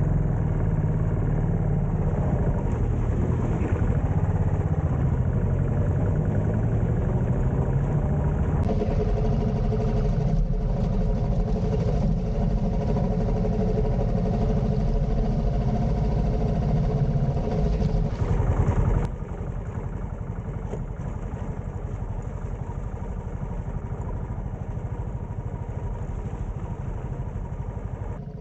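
Royal Enfield motorcycle engine running steadily while riding, in several clips, with the sound changing abruptly about a third of the way in and again about two-thirds in, quieter after the second change.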